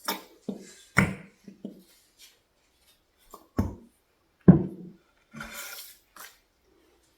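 A run of short knocks and clinks as a furniture wax container and its awkward lid are handled, with a brief rubbing sound about five and a half seconds in.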